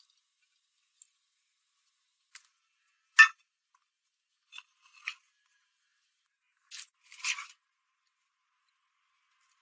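About six short scraping sounds with silence between them. The loudest comes about three seconds in, and a closer pair comes near the end.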